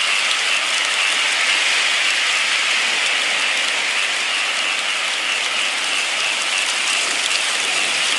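Steady, even rain falling, with a dense patter of drops.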